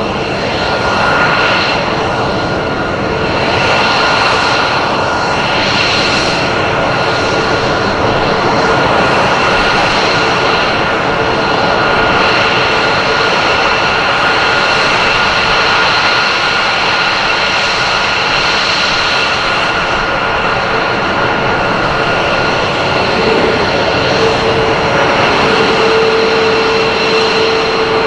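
F-22 Raptor's jet engines running loud and steady: a broad roar with a high turbine whine over it, and a lower tone joining near the end.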